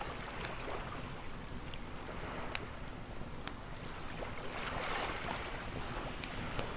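Wood fire crackling with scattered sharp pops over the wash of ocean waves, which swell to a peak about five seconds in.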